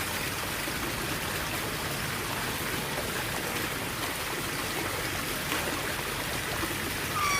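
Steady hiss like running water, with one short bird chirp near the end.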